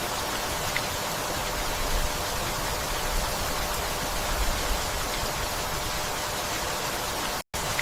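Steady rainfall, an even hiss of many drops with a rumbling low end. The sound cuts out completely for a split second near the end.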